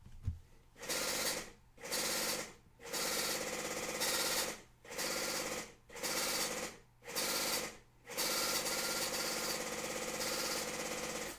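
Dot-matrix ticket printer printing a truck scale weight ticket: a short knock, then a run of buzzing print passes about a second each with brief pauses between them, and one longer pass of about three seconds near the end.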